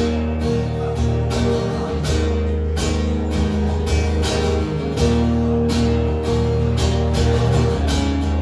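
Live band playing an instrumental break with guitar, between sung choruses of the song.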